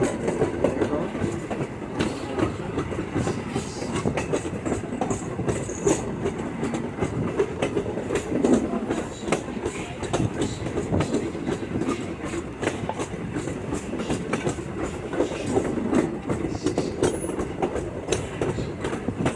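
Railroad passenger car rolling along the track: a steady rumble of wheels on rail, with irregular clicks and clacks over the rail joints.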